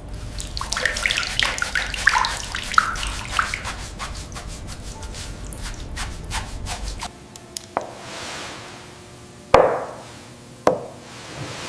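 Water dripping and trickling with many small clicks, over a low rumble that stops about seven seconds in; then three separate sharp drops, the second the loudest.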